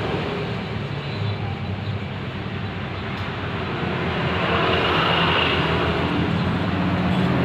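Ketinting longtail boat engine running steadily, easing off about a second in and picking up again from about four seconds.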